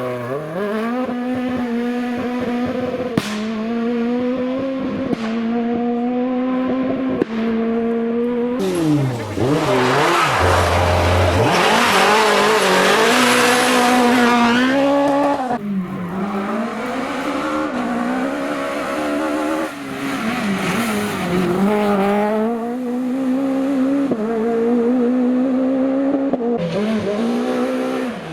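Super 1600 rally car's 1.6-litre naturally aspirated four-cylinder revving hard on a stage. The engine note rises and drops through gear changes, with a short crack at several upshifts. It gets loudest and noisiest around the middle as the car passes close.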